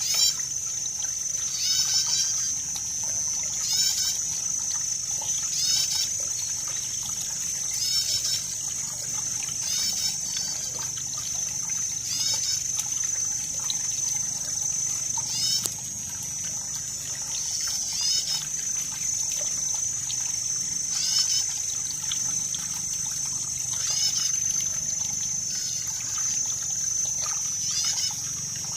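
Water trickling and splashing steadily, under a constant high-pitched whine. A short rippling call repeats about every two seconds.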